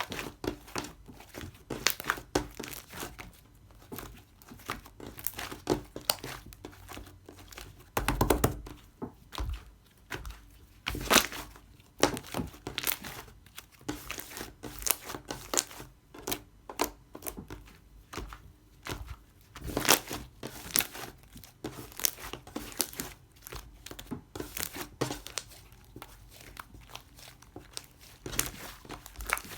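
Close, irregular crinkling and tearing of a thin material like paper or plastic, with scattered taps and sharper snaps, a few of them louder.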